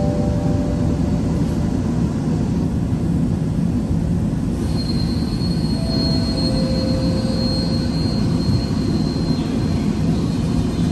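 Underground metro train's steady rumble in a tunnel, with a thin high whine coming in about five seconds in.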